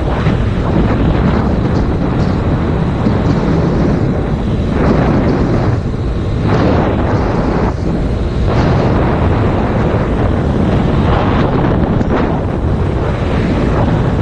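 Heavy wind noise buffeting an action camera's microphone at riding speed, swelling and dipping in gusts, over the running parallel-twin engine of a 2019 Yamaha MT-07 motorcycle.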